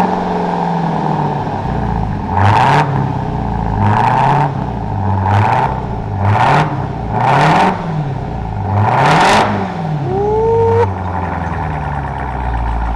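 Supercharged 6.2-litre V8 of a 2023 Dodge Durango SRT Hellcat, free-revved about six times in quick succession through its exhaust with the mufflers cut off. Each rev rises and falls in pitch, and a brief rising whine follows the last rev near the end.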